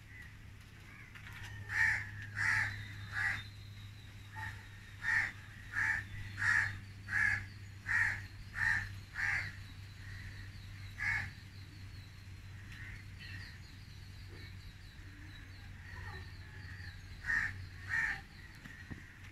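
A bird giving runs of short, evenly repeated calls, about one and a half a second, with pauses between the runs, over a steady low hum.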